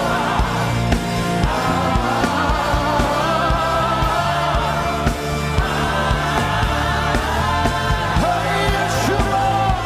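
Live gospel worship music: a band with drums and bass playing a steady beat while voices sing a held, wavering melody.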